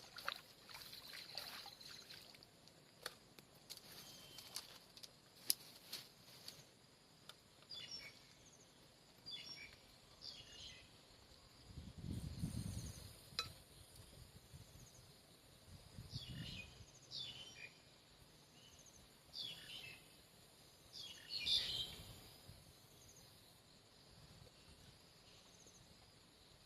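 Quiet outdoor rice-paddy ambience: a bird calling in short groups of falling chirps, seven or so times, over scattered clicks at the start and a few low thumps.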